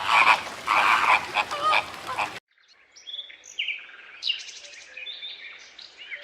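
A frog croaking in loud repeated calls, cut off abruptly a little over two seconds in, followed by a bird chirping in short, high notes, some sliding in pitch.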